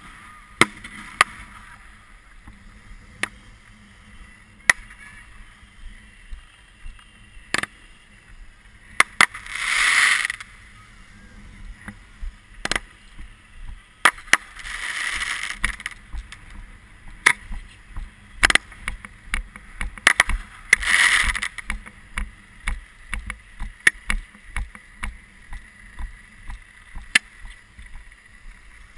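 Fireworks heard from the firing position: scattered sharp bangs and cracks throughout, with three longer rushing hisses about ten, fifteen and twenty-one seconds in.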